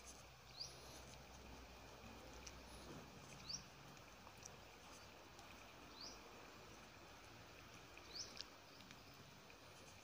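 Near silence: faint outdoor background with a handful of short, high, rising bird chirps, spaced a couple of seconds apart.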